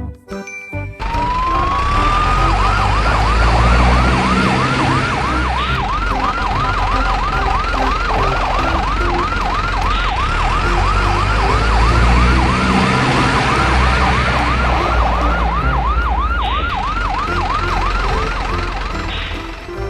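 Electronic siren winding up about a second in, then yelping rapidly, about three wails a second, over a loud low rumble and thumping that stops just before the end.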